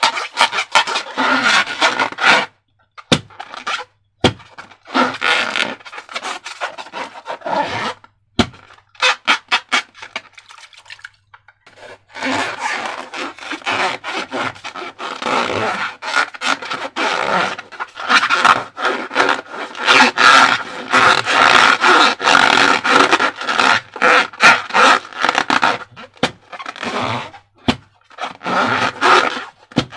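Slime being squished and stretched by hand: dense, sticky crackling and squelching in long stretches, with a few short pauses.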